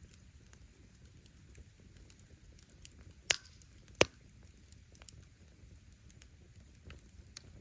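Wood fire crackling: firewood snapping with a steady low rumble of the flames and many small ticks, broken by two loud sharp pops a little over three seconds and about four seconds in.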